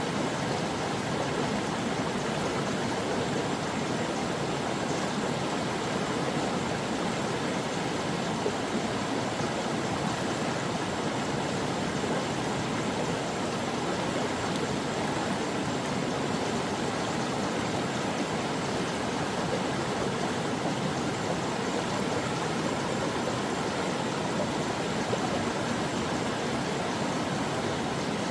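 A stream of water flowing over rocks, a steady rushing and babbling with no pauses or changes.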